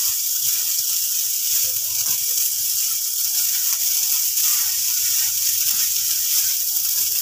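Boiled rice sizzling in hot oil in a frying pan as it is stirred into the masala with a wooden spatula: a steady, even hiss.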